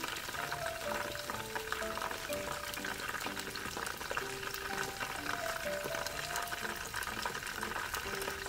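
Karaage chicken deep-frying in a pot of hot oil, a steady crackling sizzle, under background music with a simple melody of short notes.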